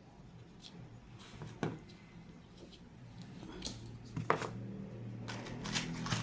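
Handling noise of a repaired wooden door jamb being fitted back into place: scattered light clicks and knocks, the sharpest about four seconds in, with a low steady hum joining about halfway and denser clicking near the end.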